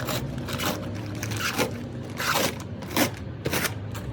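A series of short, irregular scraping strokes, about eight in four seconds, over a steady low mechanical hum.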